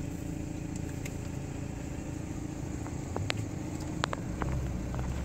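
Car engine idling with a steady low hum, heard from inside the cabin, with a few short sharp clicks in the second half.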